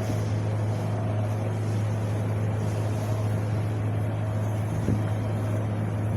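Steady wind blowing, an even rushing noise over a constant low rumble.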